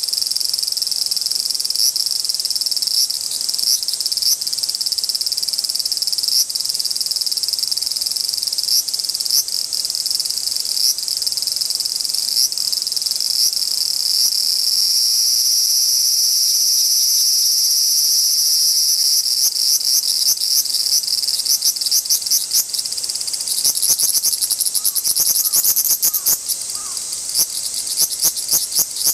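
Large brown cicadas (aburazemi) buzzing at close range, in what the uploader takes for a territorial dispute: a loud, high, sizzling drone broken by stuttering pulses. About two-thirds of the way through, the pulses grow dense and louder.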